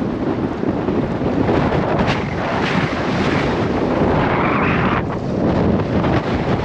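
Gale-force wind buffeting the microphone: a loud, gusty rumble that swells brighter for a second or so about four seconds in.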